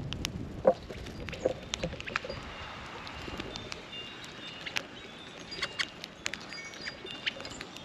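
Small birds at a feeder: scattered short, high chirps and chip notes over frequent light ticks and taps, like pecking and scratching at seed.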